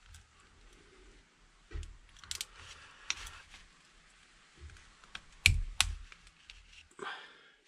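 Scattered sharp clicks and light knocks of hand tools and brake caliper parts being handled during reassembly, the loudest a pair of clicks about five and a half seconds in, with a short scrape near the end.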